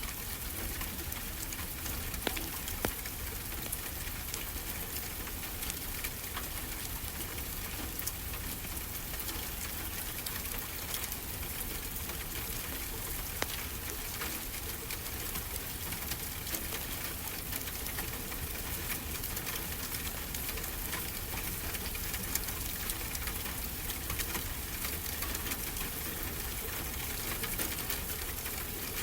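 Fireplace crackling, with frequent small clicks and now and then a sharper pop, over a steady hiss of ocean surf.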